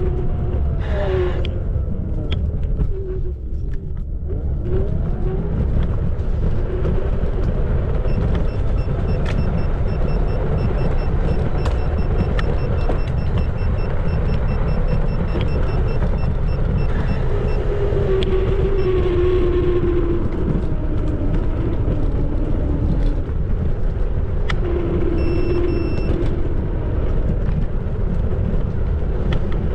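Xiaomi Electric Scooter 4 Pro riding: the electric motor's whine slides up and down in pitch as the speed changes, over a steady low rumble of wind and tyres on the road.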